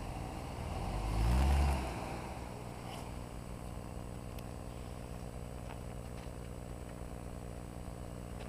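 Hummer H3 engine with Magnaflow exhaust revving once, rising and falling over about a second, then running steadily at low revs, as the truck tries to climb a muddy rock ledge.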